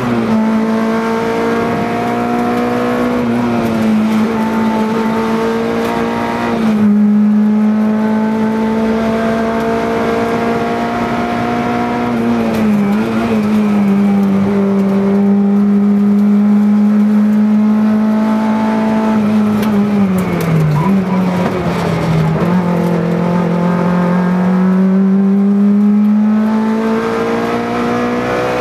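Peugeot 309 rally car engine heard from inside the cabin, held at high revs while driven flat out on a rally stage. The pitch stays high and steady, with a few brief dips and a slow climb again near the end.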